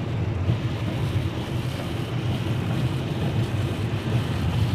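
Steady low rumbling background noise with a fluctuating hiss, and no distinct events.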